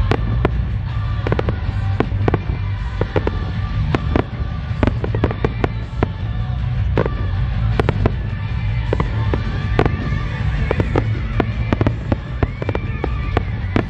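Starmine fireworks barrage: many shells bursting in quick, irregular succession, sharp cracks over a continuous deep rumble, with pop music playing along with the show.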